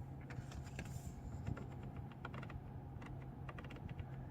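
Scattered light clicks of the climate-control buttons on a 2017 BMW 650i Gran Coupe's centre console being pressed, over a steady low hum.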